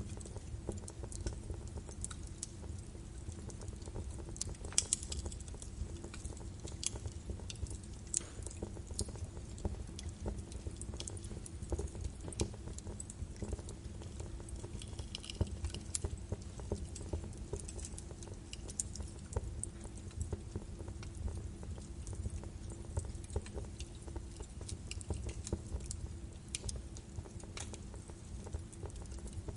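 Birch wood fire burning in a fireplace: a steady low rumble of the flames with frequent irregular crackles and sharp pops.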